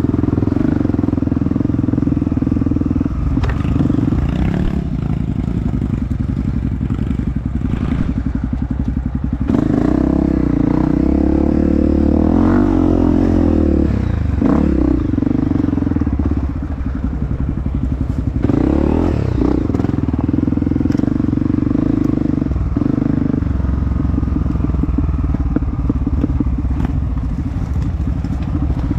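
Dirt bike engine running while being ridden, mostly holding steady revs. The revs change several times, most in the middle, where they rise and fall.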